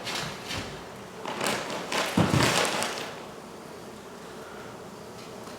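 Honey bees buzzing around an exposed comb inside a wall, a steady hum. During the first three seconds it is overlaid by knocks and rustling from handling.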